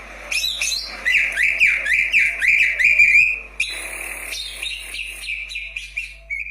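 Cucak ijo (green leafbird) singing a fast run of short whistled notes, each sliding down in pitch, about four a second. The notes are loudest in the first half and continue softer toward the end.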